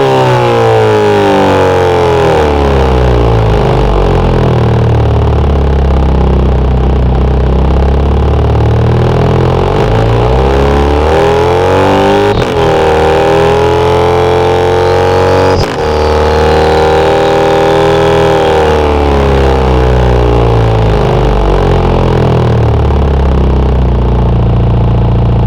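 Synthesized Volkswagen Golf R turbocharged four-cylinder engine sound revving up and down through the gears of an acceleration run. There are sharp breaks about twelve seconds in and again around sixteen seconds, where the revs drop as for a gearshift, and a thin high whine rises just before the second break.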